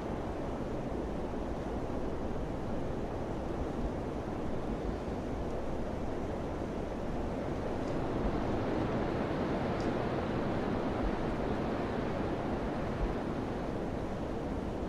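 Steady wind rushing, swelling a little past the middle.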